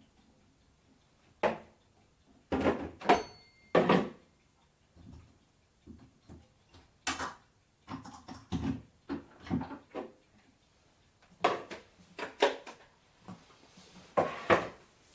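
Kitchen clatter during salad making: scattered knocks, clinks and thuds of dishes, utensils and cupboard doors, a dozen or so spread out, with one clink about three seconds in ringing briefly.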